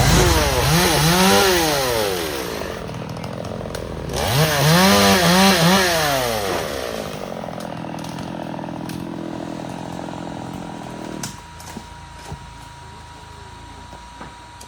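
Chainsaw engine blipped up and down in quick revs, two clusters of them, then running lower and cutting out about eleven seconds in.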